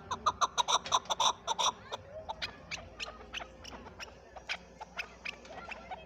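Chukar partridge calling: a fast run of short clucking notes, about five a second, for the first two seconds, then fainter, scattered notes.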